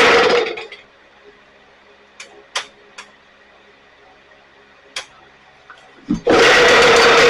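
STIHL BG 86 two-stroke leaf blower running, then winding down and stopping within about the first second. A few light clicks follow, and about six seconds in it starts again and runs loudly.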